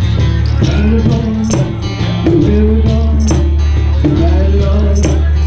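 Live acoustic folk music: a cajón keeps a steady beat of sharp slaps with a rattling snare buzz, under a pitched melody line and a steady low bass.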